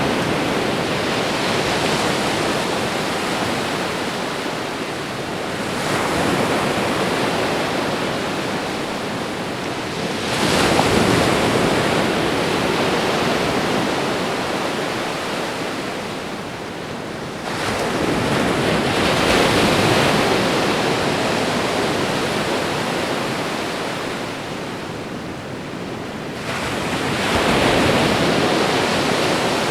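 Ocean waves breaking and washing onto a shore, a continuous surf hiss with a fresh wave surging in every six to eight seconds, each one swelling quickly and then slowly fading.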